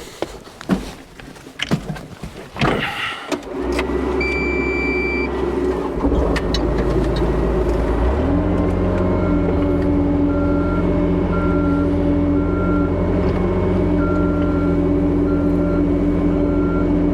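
Scattered knocks and handling noises, then a vehicle engine starts about three and a half seconds in and runs steadily, picking up speed about eight seconds in. A high chime sounds briefly just after the start, and short beeps repeat at uneven intervals through the rest.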